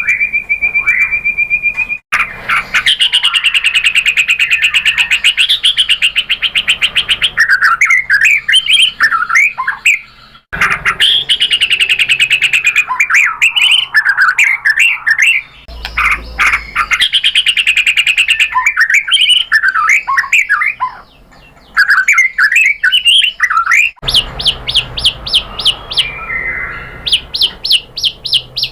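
White-rumped shama (murai batu) singing loudly. It opens with a long steady whistle, then runs into fast trills and varied whistled phrases in sections that start and stop abruptly.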